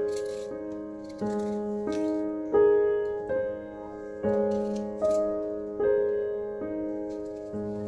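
Piano music: notes struck one after another at an unhurried pace, each fading away before the next.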